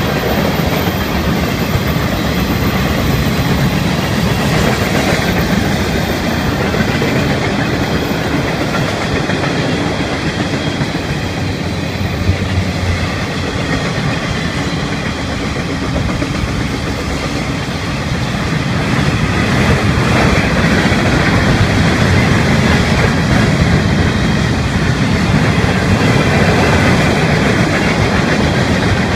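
Florida East Coast Railway freight cars rolling past, a steady rumble of wheels on rail with clickety-clack over the rail joints, growing a little louder about two-thirds of the way through.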